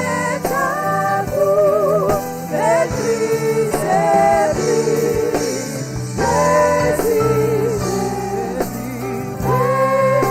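Gospel worship singing: several voices hold long notes with vibrato over a low, sustained accompaniment.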